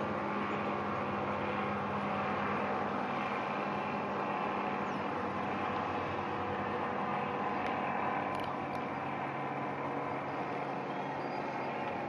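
Steady drone of a departing aircraft's engines, even in level, with a few faint steady tones running through it. A couple of faint ticks come about eight seconds in.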